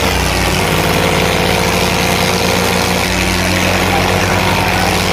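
Tractor diesel engines running loud and steady, with their pitch shifting slightly about half a second and again about three seconds in.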